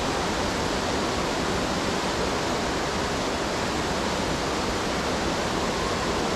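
Clackamas River whitewater at Carter Falls, a class IV rapid running at about 1200 cfs, rushing steadily.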